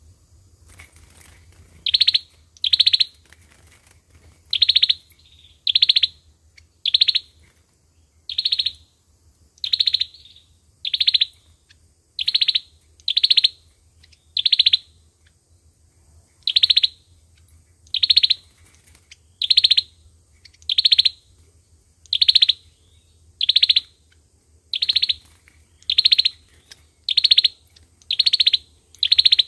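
Sâu dừa bird repeating the same short, high call about once a second, starting a couple of seconds in, as a lure call for trapping.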